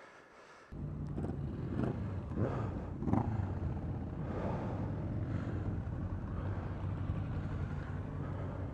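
Motorcycle engine running steadily on the move, with wind noise over it. The sound starts abruptly under a second in, and a few brief swells come in the first few seconds.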